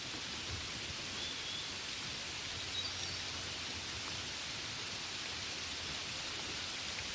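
Gentle rain falling steadily, an even fine hiss, with a few faint high chirps between about one and three and a half seconds in.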